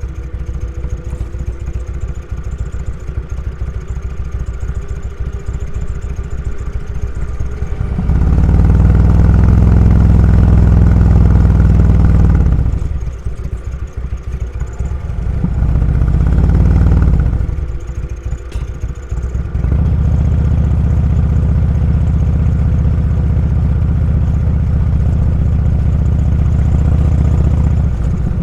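Motorcycle engine running while riding, heard from the bike. It gets louder about eight seconds in, eases off near twelve seconds, swells briefly again, drops back, then holds a steady louder note for the last several seconds.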